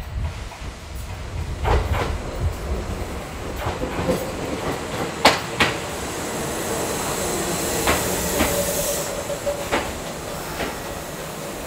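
Kintetsu electric train running through the station, its wheels knocking over rail joints and points in irregular clacks. A brief wheel squeal comes about eight seconds in.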